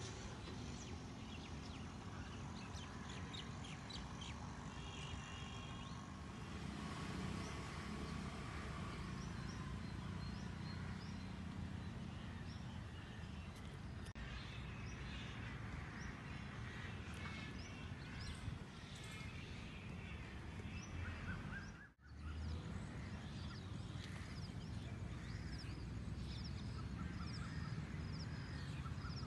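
Birds chirping outdoors, short high calls repeating many times over a steady low background rumble. The sound drops out for a moment about two-thirds of the way through.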